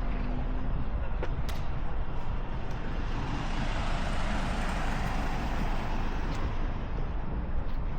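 Road traffic rumbling steadily, with one vehicle passing that swells and fades over a few seconds in the middle.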